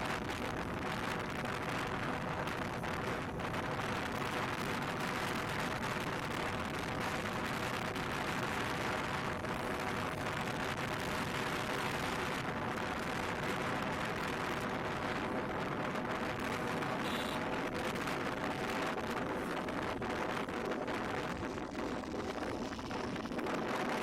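Yamaha MT-15 motorcycle on the move, its single-cylinder engine running at a steady pace under a constant rush of wind and road noise.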